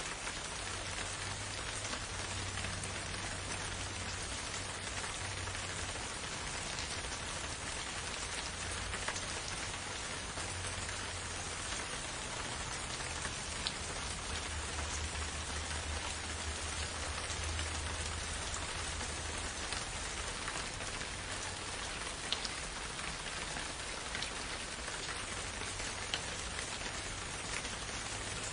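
Steady rain falling, an even hiss with a few louder single drops ticking out now and then, over a low rumble that swells and eases.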